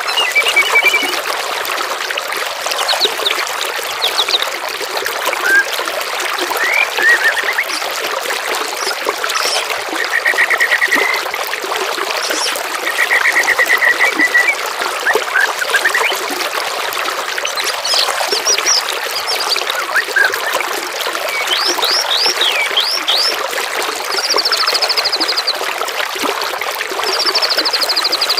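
Songbirds singing short trills and chirps over steady trickling water, with faster, higher trills in the last few seconds.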